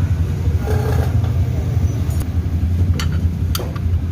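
Small automatic scooter engine running steadily with a low rumble, with a few sharp metallic clicks near the end.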